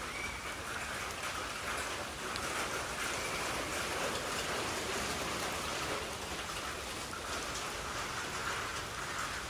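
Monsoon rain falling steadily, an even hiss of drops.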